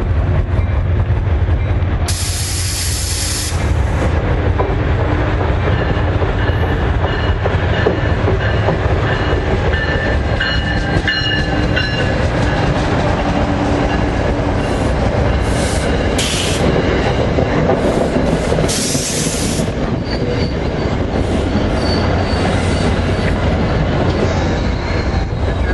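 New Jersey Transit train running close by: a steady heavy rumble, with short high-pitched bursts of hiss and squeal about two seconds in and several more later on.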